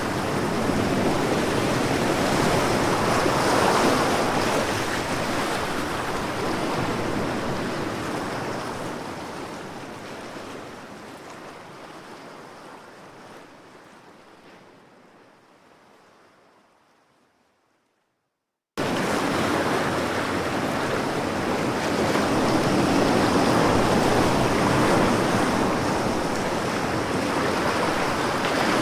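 Ocean waves washing on a shore in a steady rush of surf. They fade slowly out to silence over about twelve seconds, then cut back in abruptly at full level about two-thirds of the way through: the seam where a looped recording restarts.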